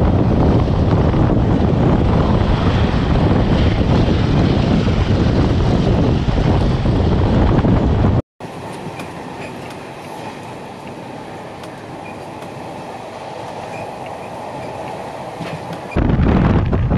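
A train running at speed, heard from an open carriage window: heavy wind buffeting on the microphone, then after a sudden cut about halfway a quieter stretch of the carriage running along the rails with faint clicks, before the wind buffeting returns near the end.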